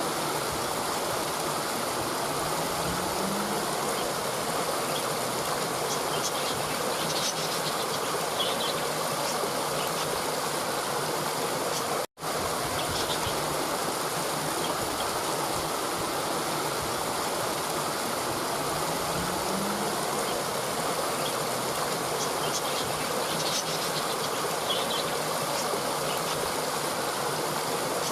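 Steady rushing of a stream, with a few faint high chirps twice. The sound cuts out for an instant about twelve seconds in and the same stretch of recording starts over.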